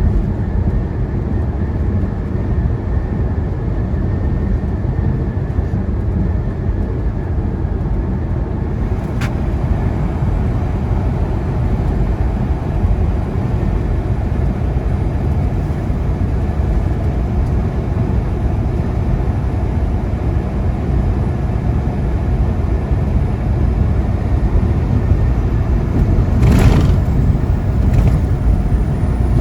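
Semi truck's engine and road noise heard inside the cab while cruising at highway speed: a steady low drone, with a short louder rush near the end.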